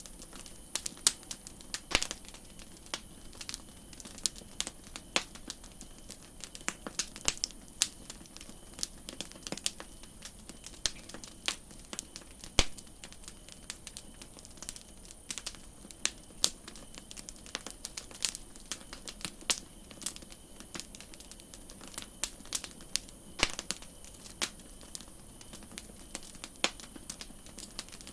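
Campfire crackling: a wood fire popping with irregular sharp snaps of varying loudness over a steady high hiss.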